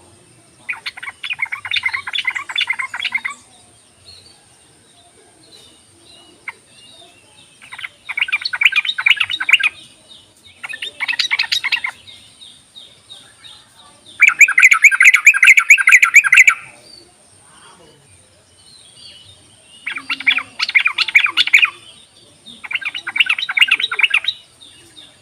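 Yellow-vented bulbul (trucuk) singing its rolling trill in six bursts of fast repeated notes, each a second or two long, separated by short pauses. The burst about fourteen seconds in is the loudest and longest.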